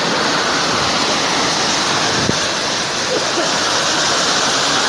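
Steady, loud rushing noise of water, without a break.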